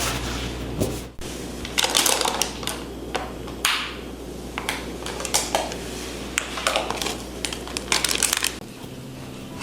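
Kitchen handling sounds: irregular clinks, taps and short rustles of dishes and utensils over a low steady hum that stops near the end.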